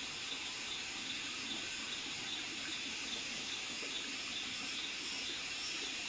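Steady rush of running water, with a faint high chirp repeating about two or three times a second.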